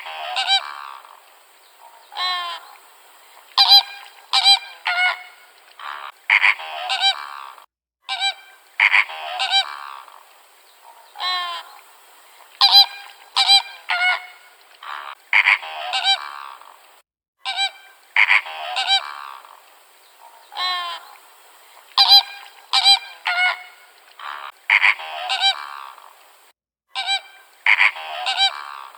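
Geese honking: runs of short, nasal honks that come in clusters every two to three seconds.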